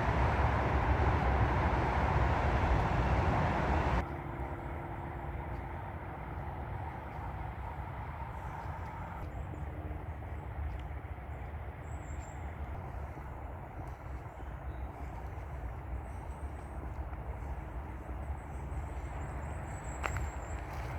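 Steady road traffic noise, louder for the first few seconds, then dropping suddenly to a lower, even hum of traffic.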